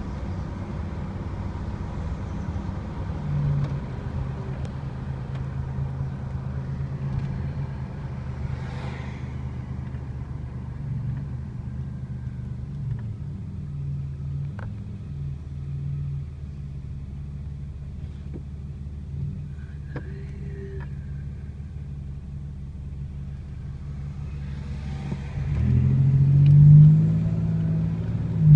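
1987 Buick Grand National's turbocharged 3.8-litre V6 running steadily while driving. Near the end the engine note rises as it accelerates.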